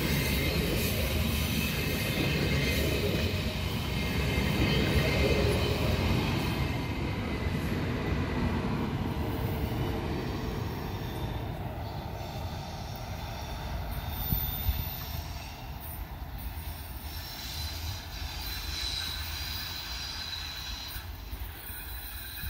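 Deutsche Bahn ICE high-speed electric train passing close by on the rails, its wheels and cars rumbling loudly. The sound then eases off as the train draws away, with a thin high wheel squeal over the quieter rumble in the second half.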